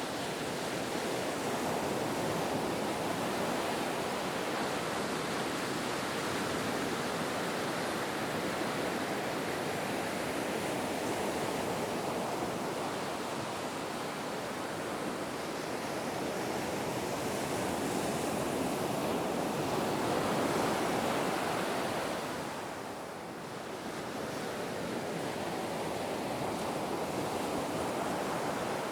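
Ocean surf washing continuously, a steady rush of breaking waves that swells about two-thirds of the way through, eases off briefly and then builds again.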